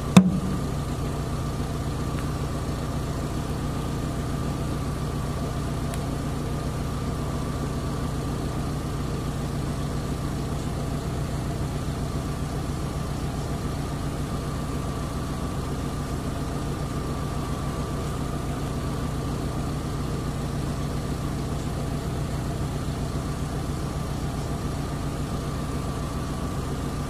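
An engine idling steadily, with a low hum and a faint high steady tone, unchanging throughout.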